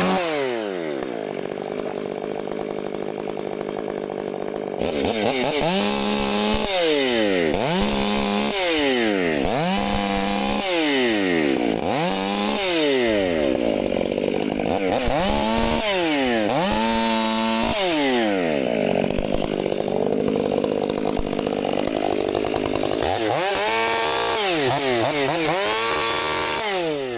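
Two-stroke chainsaw running, its throttle squeezed and released over and over so the engine rises to a high scream and drops back toward idle about eight times, with a steadier stretch just past the middle.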